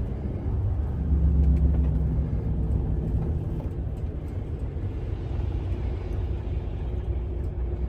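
Semi-truck's diesel engine and road noise rumbling inside the cab while driving, the engine note swelling about a second in and then settling back to a steady drone.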